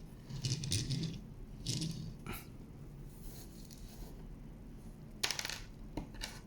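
A die-cast metal toy being handled: short bursts of metallic clinking and scraping, with a few sharp clicks, the loudest burst about five seconds in.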